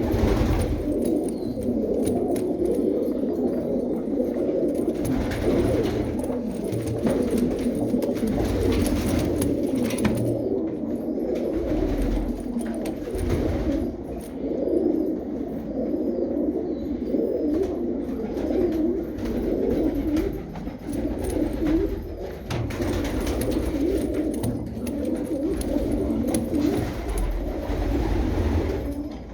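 A group of domestic pigeons cooing, many low, overlapping coos running on without a break.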